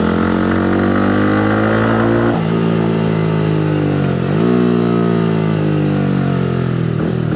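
Yamaha R15 V3's 155 cc single-cylinder engine running through an aftermarket exhaust under acceleration, the revs climbing steadily. They drop sharply about two seconds in and dip again about four seconds in before climbing once more.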